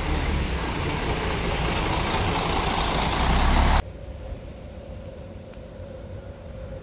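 Loud, steady rumbling vehicle noise that cuts off abruptly nearly four seconds in, leaving a quieter steady background hum.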